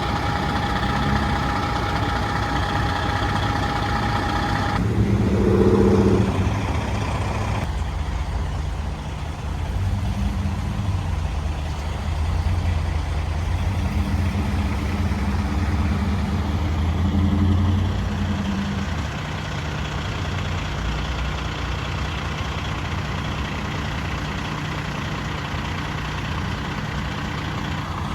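Fire engine's diesel engine running, its low rumble rising and falling between about ten and eighteen seconds in and then settling to a steady idle. A steady high tone sounds over it for the first five seconds, and a short lower tone follows about five seconds in.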